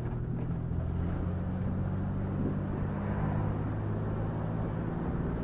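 A vehicle engine running steadily: an even low hum.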